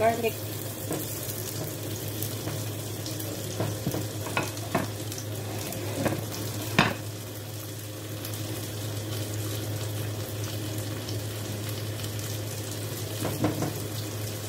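Sliced shallots and garlic sizzling in oil in a stainless steel pot, stirred with a silicone spatula, over a steady low hum. A few sharp taps of the spatula against the pot come about four to seven seconds in, the loudest near seven seconds, with more near the end.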